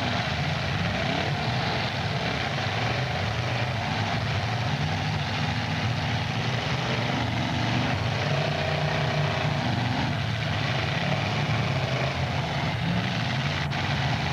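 Several demolition derby cars' engines running together, their pitch rising and falling as they rev, with one sharp knock near the end.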